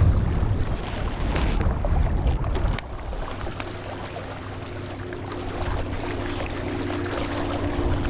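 Wind buffeting the microphone with a heavy low rumble, which cuts off suddenly about three seconds in. A quieter, steady low hum with a couple of constant tones follows.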